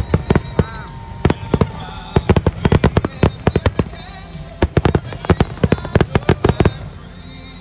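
Aerial fireworks display: a fast, irregular run of sharp bangs and crackles from bursting shells, which stops about seven seconds in.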